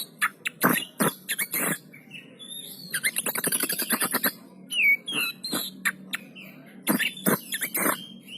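Oriental magpie-robin (kacer poci) singing in sharp, loud, squeaky notes, with a fast rattling run of notes about three seconds in and a short whistled note near five seconds.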